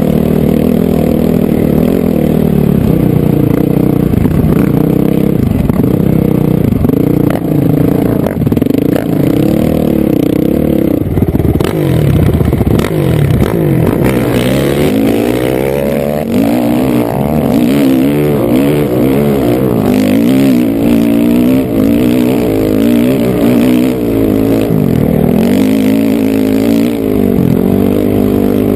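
Honda CRF450R dirt bike's single-cylinder four-stroke engine running loud while riding. Its pitch holds fairly steady for about the first ten seconds, then rises and falls repeatedly as the throttle is worked.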